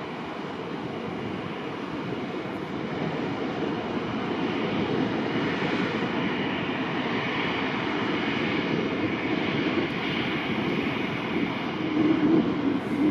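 Steady rushing noise around an Airbus A320-200 being de-iced, swelling briefly louder near the end.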